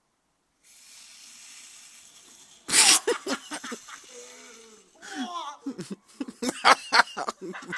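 Handheld vacuum cleaner rigged to spit flame: a steady hiss for about two seconds, then a sudden loud burst as it fires, followed by people exclaiming and laughing.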